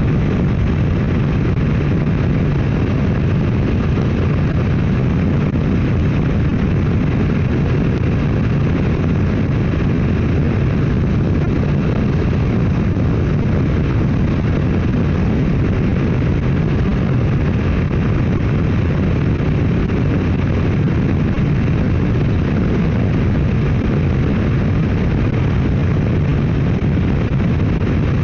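Motorcycle riding at steady highway speed: a continuous, even rush of wind noise on the microphone blended with the engine's drone, with no change in speed.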